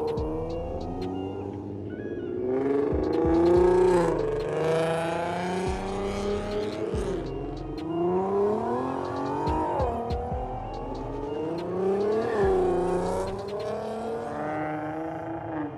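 Car engine revving hard, its pitch climbing and falling several times, with a steady hiss over most of the stretch.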